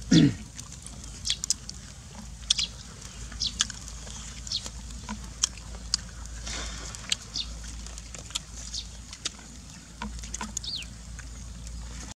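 Birds chirping, short high falling calls about once a second, over scattered clicks and pops from a smouldering wood fire. A short, loud, low falling sound at the very start.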